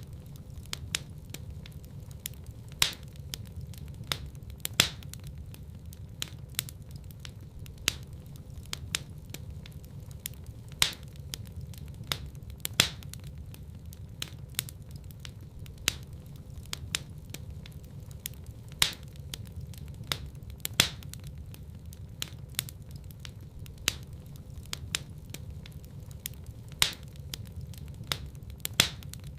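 Wood fire burning in a fireplace: a steady low rumble of flames with irregular sharp crackles and louder pops every second or two.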